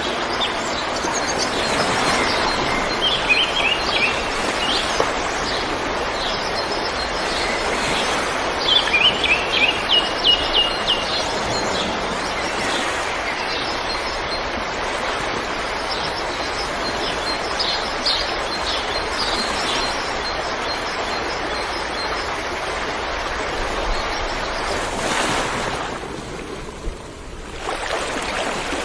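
Steady rushing water with songbirds chirping over it, including two quick runs of rapid chirps a few seconds in and again near ten seconds. The water sound dips briefly a few seconds before the end.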